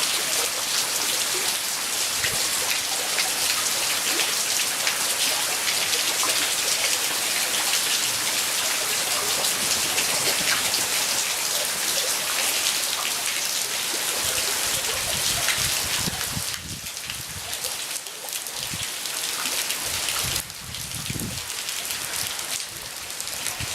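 Heavy typhoon rain pouring down in a dense, steady hiss. It eases noticeably about two-thirds of the way through, with a few low rumbles in the later part.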